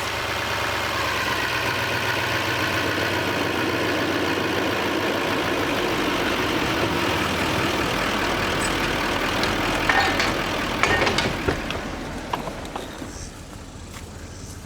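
Engine of a towing vehicle running hard under load while pulling a stuck bus, with a few sharp metal clanks about ten seconds in. The engine then eases off as the bus comes free.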